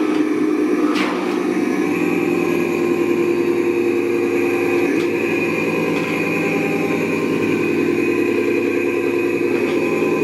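Radio-controlled model tugboat's motor running with a steady whine, its pitch shifting slightly about halfway through.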